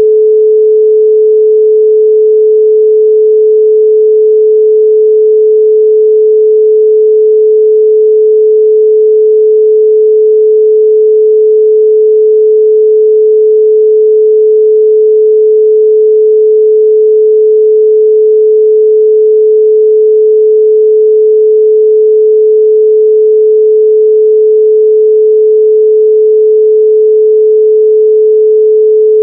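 A continuous 432 Hz pure sine tone, loud and perfectly steady.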